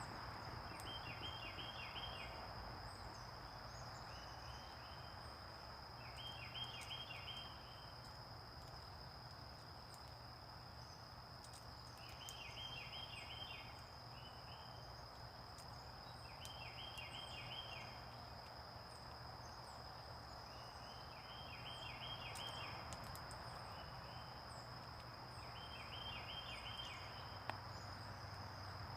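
A songbird singing a short phrase of quick notes, repeated every few seconds, over a steady high-pitched tone.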